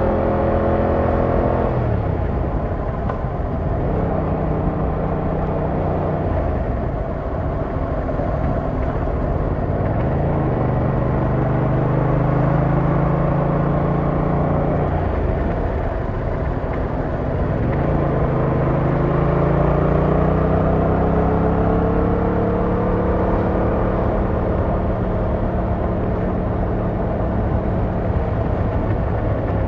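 Yamaha MT-07's 689cc inline-twin engine heard from the rider's seat while riding in town: the engine note drops sharply near the start as the throttle is closed, then runs low and steady, and climbs slowly in pitch a few times as the bike accelerates through the gears. Wind and road noise run underneath.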